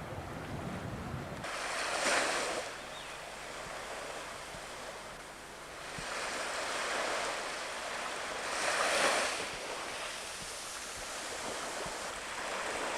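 Sea waves surging and washing in, swelling loudest about two seconds in and again about nine seconds in, with wind buffeting the microphone at the start.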